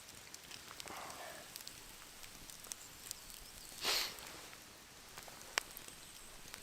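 Faint crackling and scattered pops from a campfire and a pan of egg frying in oil, with a short hissing burst about four seconds in and one sharp pop near the end.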